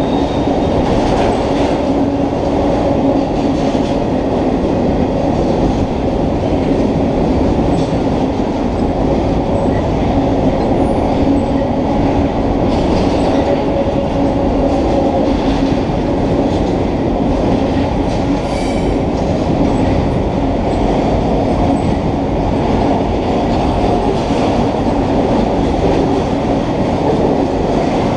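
Empty double-stack intermodal well cars of a freight train rolling past: a steady, unbroken rumble and clatter of steel wheels on the rails, with a faint squeal.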